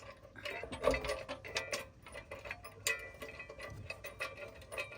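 Irregular metallic clicks and knocks as the heavy rear bumper is shifted and lifted into line against the Jeep's frame.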